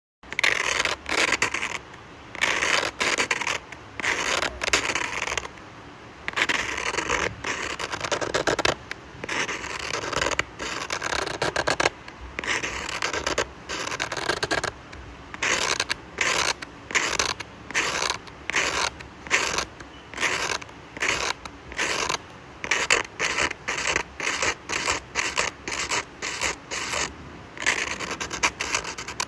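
A drawing tool scratching across paper in a long series of strokes. The early strokes are longer, and later they become short, quick strokes, about one or two a second.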